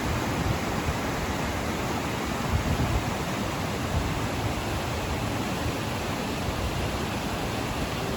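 Steady rushing of a fast mountain river, the Landwasser, an even water noise without breaks.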